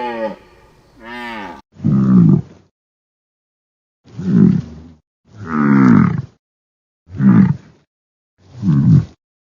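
A series of short, low animal calls, about six, each falling in pitch and cut off by a gap of silence, following the end of a longer call at the start.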